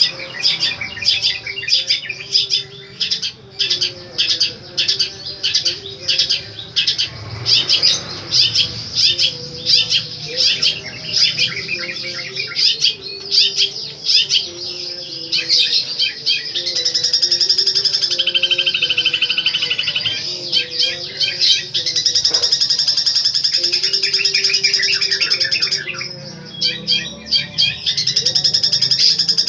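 Long-tailed shrike (cendet) singing loudly. First comes a fast run of sharp, repeated notes; from about halfway it goes into a long, rapid unbroken trill, which breaks off briefly near the end and then resumes.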